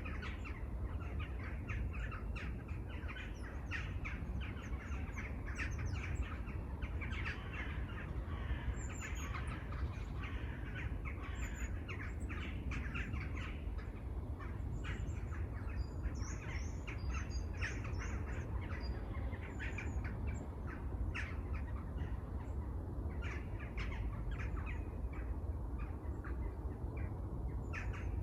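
Many birds calling and chirping at once in dense, overlapping short calls, with a few higher calls around the middle and a steady low rumble underneath.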